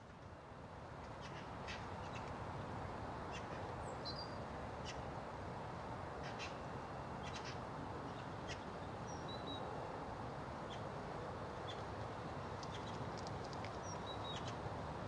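Wild birds calling, with many short sharp calls and a few brief chirps, over a steady outdoor background hiss and rumble that fades in at the start.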